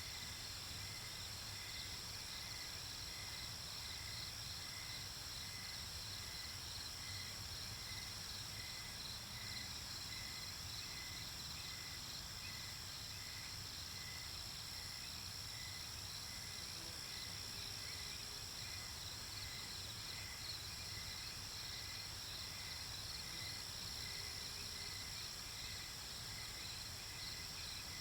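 Nighttime chorus of crickets and other insects: a steady high trill with a lower chirp repeating about once a second.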